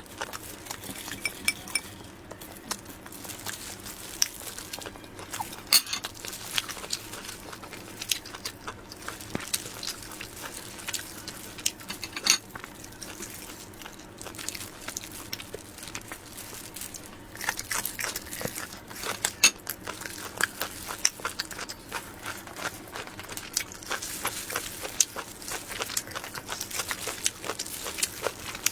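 Close-miked eating of soft, cream-filled sponge cake rolls: irregular wet chewing and mouth clicks, with a few clinks of a utensil against dishware. The clicking comes in busier stretches past the middle and near the end.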